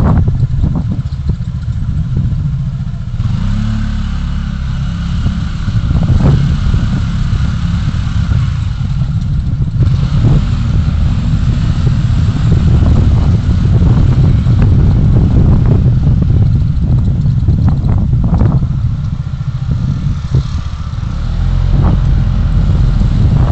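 Steady low rumble of road and wind noise from a moving vehicle, with occasional sharp knocks and rattles.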